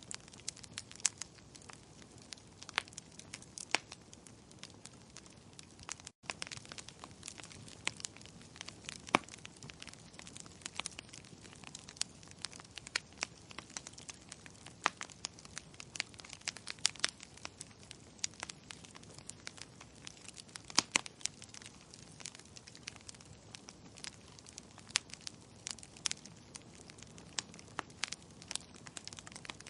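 Wood fire in a fireplace crackling, with irregular sharp pops and snaps over a steady soft hiss. There is a split-second gap in the sound about six seconds in.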